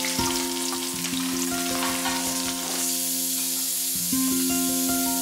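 Chopped onions and curry leaves sizzling steadily as they fry in hot oil in a kadai, over soft plucked-string background music.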